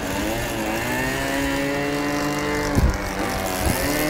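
ASP FS120AR four-stroke glow engine of a quarter-scale Clipped Wing Cub model airplane running in flight, its pitch rising in the first second and then holding steady. The pitch dips briefly twice near the end, with a couple of low thumps.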